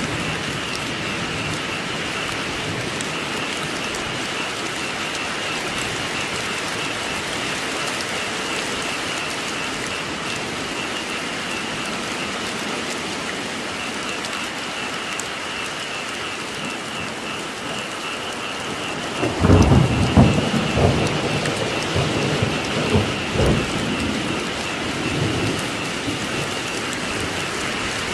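Steady rainfall, with a low rumble of thunder rolling in about two-thirds of the way through and fading out before the end.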